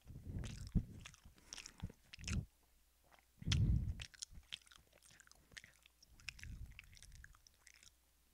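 Close-miked chewing: wet mouth clicks and smacks with a few low thumps, the loudest about three and a half seconds in.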